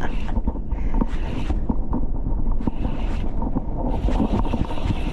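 Wind rumbling on the microphone, with water rushing and washing around in repeated surges about once a second.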